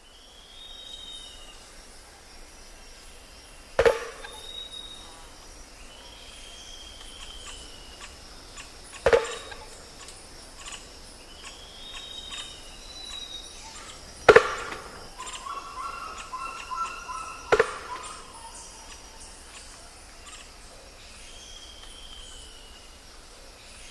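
Four sharp knocks on wood, a few seconds apart, each ringing briefly; the third is the loudest. Under them is tropical forest ambience: repeated arching whistled bird calls and a steady high insect hum.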